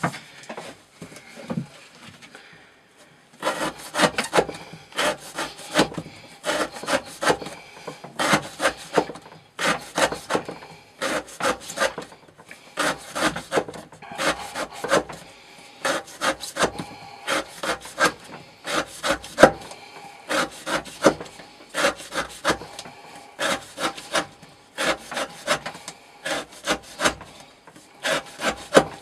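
Elmax-steel knife blade slicing rope over and over, a run of short rasping strokes at about two a second that starts a few seconds in. The edge is wearing down in an edge-retention test and still only cuts a little.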